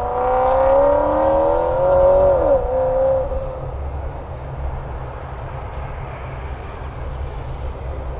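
Jet airliner passing close by: a whine of several tones that rises slowly, then drops sharply in pitch about two and a half seconds in as the aircraft goes past, and fades, leaving a low engine rumble.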